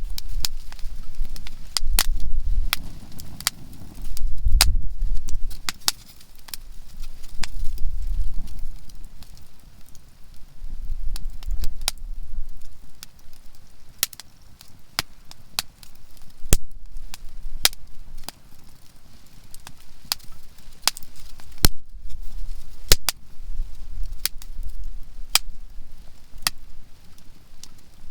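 Conifer firewood burning in a campfire, crackling with frequent, irregular sharp pops, some loud. Under it a low rumble swells and fades every few seconds.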